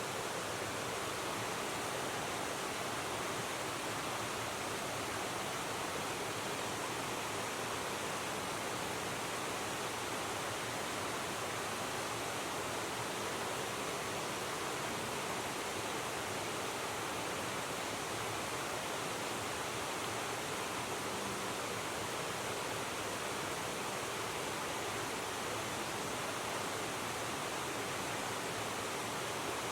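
River water rushing steadily, an even, unbroken noise with no clear events.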